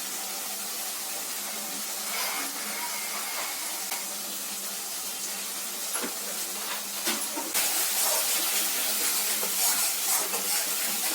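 Food sizzling in hot oil in a pan, a steady hiss with a few clicks, growing louder and crackling about seven and a half seconds in.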